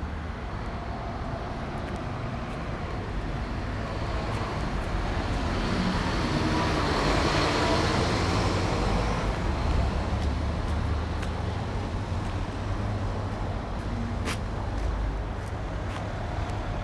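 Road traffic running steadily, with one motor vehicle passing close by, its sound swelling to a peak about seven to eight seconds in and fading away.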